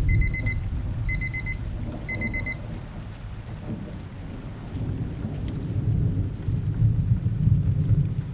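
Timer alarm beeping in three quick bursts of rapid high beeps, about a second apart, signalling the end of a 25-minute pomodoro session. Under it runs a steady rain and thunder ambience.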